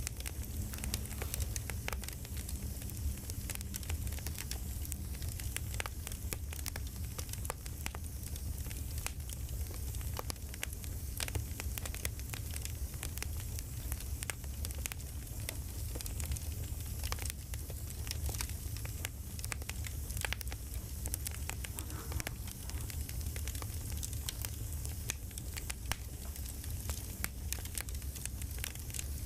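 Campfire crackling: a steady low rumble of burning wood with frequent, irregular sharp pops and snaps.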